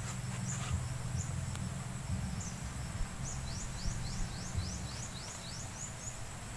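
Rural outdoor ambience: insects keep up a steady high-pitched buzz. About three seconds in comes a fast run of short rising chirps, several a second, lasting about two seconds. Under it all runs a low steady rumble.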